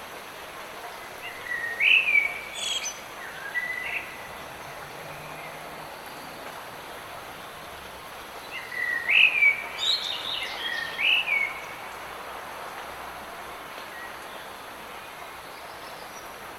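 Steady hiss of light rain, with a songbird singing two short phrases of sweeping whistled notes, one about a second and a half in and another about eight and a half seconds in.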